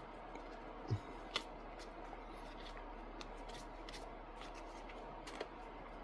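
Trading cards being handled and laid out on a table: a few soft taps and clicks, with a low thump about a second in, over a faint steady hum.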